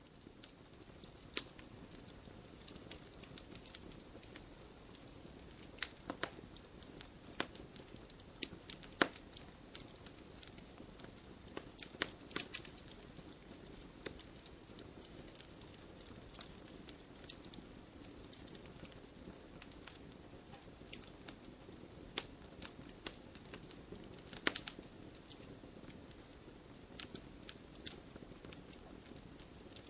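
Campfire burning: a steady low rush of flame with irregular sharp crackles and pops from the burning wood, a few louder snaps scattered through.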